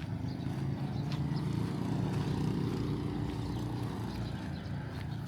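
A motor vehicle passing on the street, its engine rumble swelling and then fading.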